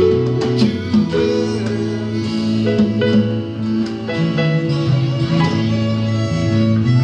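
Live band music with guitar: an instrumental passage of a slow song between sung lines, with held chords over a moving bass line.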